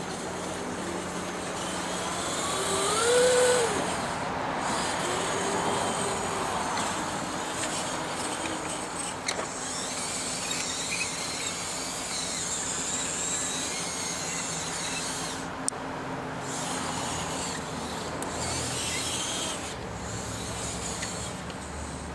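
Radio-controlled model construction machinery working: small electric motors whining, rising and falling in pitch, over a steady high whir and rubbing noise, with one sharp click about two-thirds of the way through.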